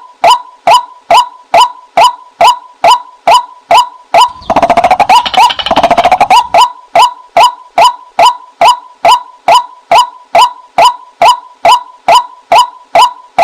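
Recorded decoy call of a female white-breasted waterhen: an even series of short, sharp 'kwak' notes, a little under three a second, broken about four seconds in by a two-second burst of rapid, harsher chattering before the steady notes resume.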